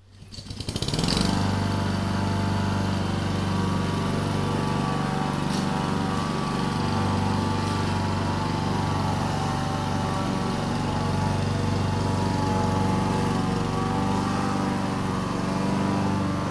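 Lawn mower starting up: rapid firing pulses build over about the first second as it comes up to speed. It then runs at a steady pitch.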